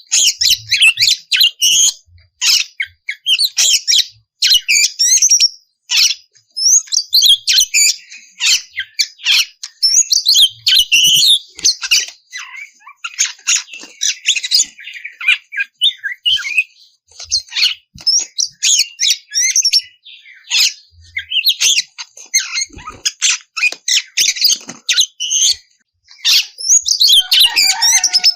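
Oriental magpie-robin (kacer) singing a loud, fast, varied song of sweeping whistles and harsh notes, phrase after phrase with only brief pauses.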